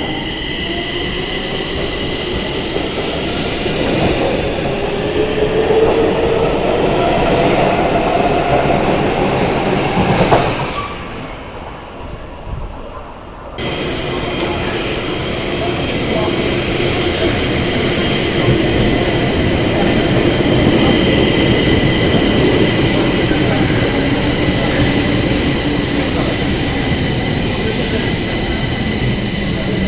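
Modern electric metro train running: low rumble of wheels on rail under a steady high hum, with motor whine gliding slowly up and down in pitch. About ten seconds in, a loud knock is followed by a few seconds of quieter, dulled sound before the running noise returns.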